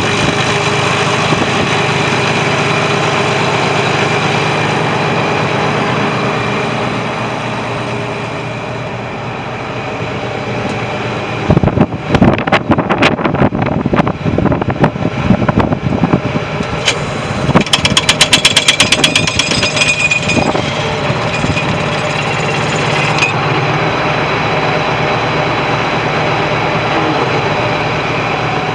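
John Deere 8640 4x4 tractor's six-cylinder diesel engine running steadily. About halfway through, a run of loud, sharp knocks and rattles breaks in for several seconds, with a fast rattle near the end of it.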